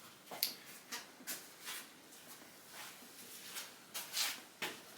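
Light clicks and clinks of small metal engine parts being handled and set down, about ten separate taps at uneven intervals, a little louder near the end.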